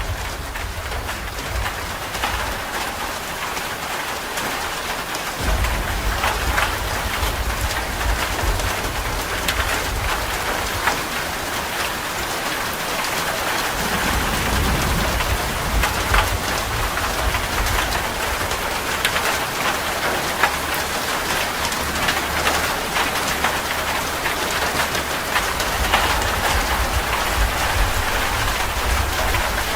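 Heavy rain drumming on a metal roof, a dense steady patter of drops. Low rolling thunder comes in about five seconds in and swells again around fourteen seconds.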